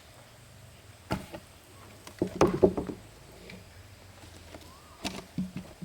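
A few sharp knocks and clunks: one about a second in, a louder clatter of several knocks about two and a half seconds in, and two or three more near the end, over a faint low hum.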